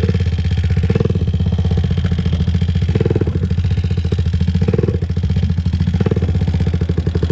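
2001 Honda TRX400EX ATV's single-cylinder four-stroke engine idling steadily, swelling briefly four times.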